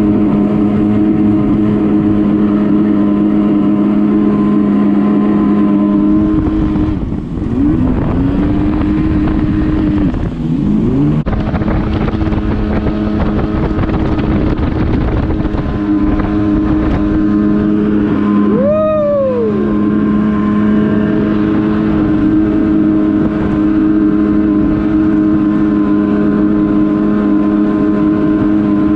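Yamaha WaveRunner jet ski engine running at a steady cruising pitch. The throttle is eased off and the engine picks up again twice, about a quarter and a third of the way in. Past the middle there is a short sharp rise and fall in pitch.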